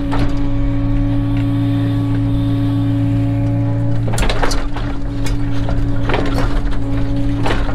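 Cat 307 excavator's diesel engine running steadily under work, a constant low hum, with a few short knocks or clanks about halfway through and near the end.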